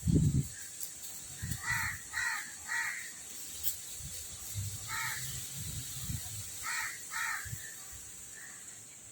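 Crows cawing in short runs: three caws, then a single one, then two more. A low thump comes at the very start.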